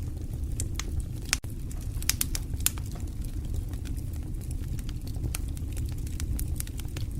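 Wood fire burning in a fireplace: irregular sharp crackles and pops over a steady low rumble of the flames, with a cluster of louder pops about two seconds in.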